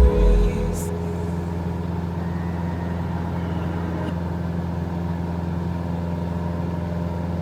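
Engine running at a steady, unchanging speed: an even low drone with overtones. A burst of music cuts off within the first second.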